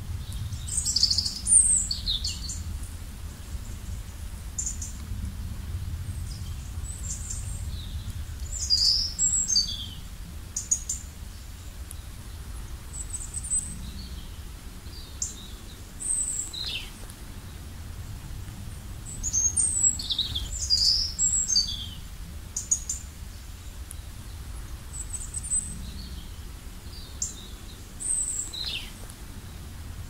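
Birds chirping and calling: clusters of quick high chirps and short falling whistles every few seconds, over a faint low steady rumble.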